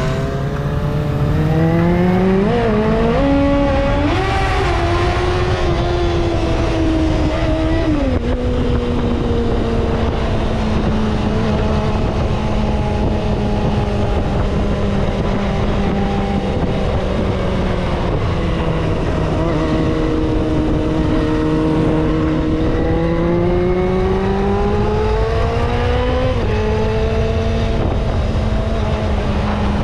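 Kawasaki ZXR250 inline-four engine running under way. The revs climb over the first few seconds and fall off sharply about eight seconds in, then hold steady. They climb again in the second half and drop sharply once more near the end, like upshifts.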